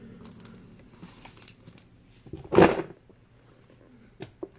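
Plastic fidget toys being handled: a light rustling, a single louder clatter a little past halfway, and a couple of small clicks near the end.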